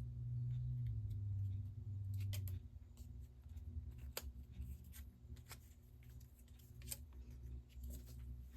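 Scattered light clicks and snips of paper craft pieces being handled and cut at a work table, over a low hum that drops in level about two and a half seconds in.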